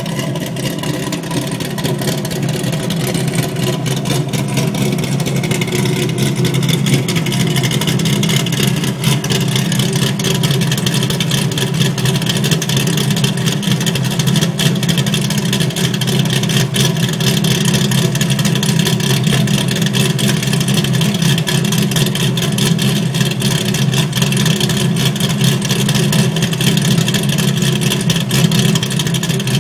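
Pontiac GTO's V8, built with an aggressive aftermarket cam (238/244 duration, 110 lobe separation), Kooks long-tube headers and a Corsa Sport exhaust, idling steadily.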